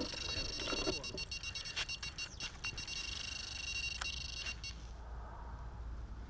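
Electronic carp bite alarm sounding as a continuous high-pitched tone during a run, with line being taken off the rod. It cuts off about three quarters of the way through, and there are a few sharp clicks of handling.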